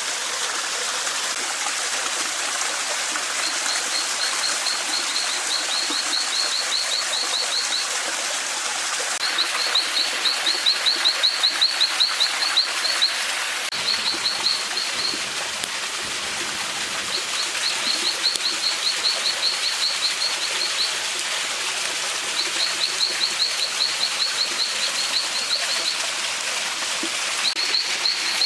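A songbird repeating bursts of quick, high, evenly spaced notes, several a second, each burst lasting one to four seconds, over the steady rush of a forest stream.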